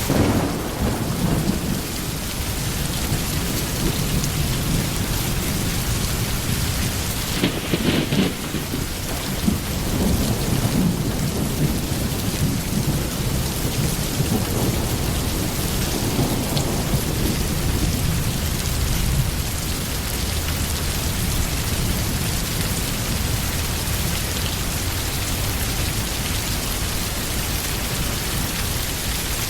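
Steady heavy rain with thunder rolling in the background: a low rumble at the start, a stronger one about eight seconds in, and another around seventeen seconds.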